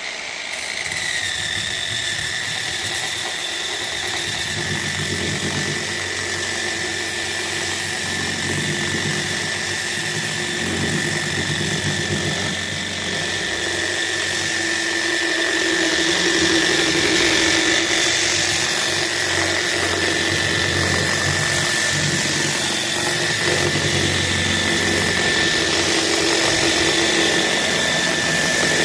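An electric motor runs steadily with a high whine over a broad hiss, like a woodworking power tool. The whine drops slightly in pitch in the first second, then holds.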